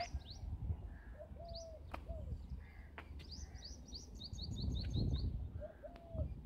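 Wild birds calling: short, high, downward chirps, with a fast run of them about halfway through, and a lower, arched whistled call twice. A low rumble sits underneath.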